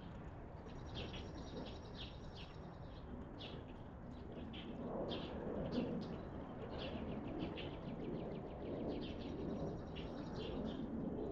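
Small birds chirping in quick, repeated short calls over steady outdoor background noise.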